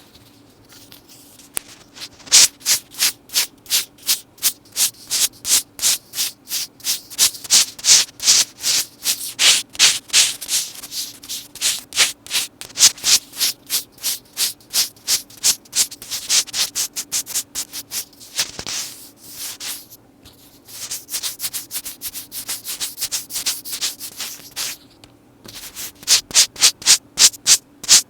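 Metal necklace chains handled close to the microphone, jingling and rattling in short repeated strokes of about three a second, with two brief pauses in the second half.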